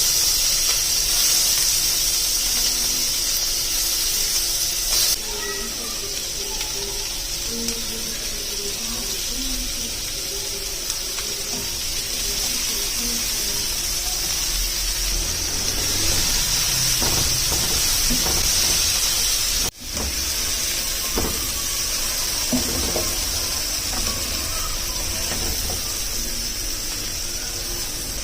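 A steady, high hiss that starts abruptly and drops out for an instant about twenty seconds in.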